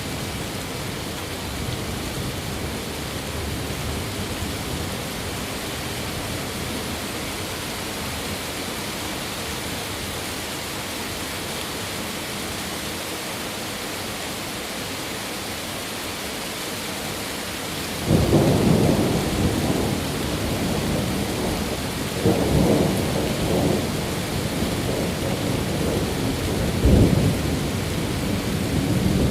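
Steady rain hiss. About two-thirds of the way through, a sudden thunderclap breaks in and rumbles on in rolling waves, swelling twice more before the end.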